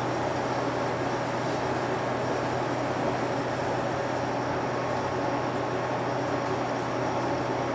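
Interior running sound of a UD (Nissan Diesel) Space Runner RA PKG-RA274KAN city bus under way: steady diesel engine hum and road noise heard from the passenger cabin.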